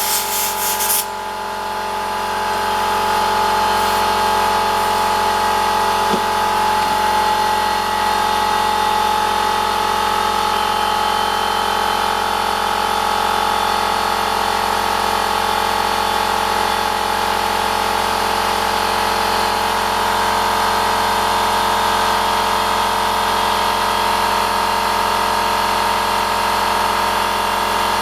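Electric air compressor running steadily with a loud, even drone and a strong steady whine. A pulsing hiss cuts off about a second in.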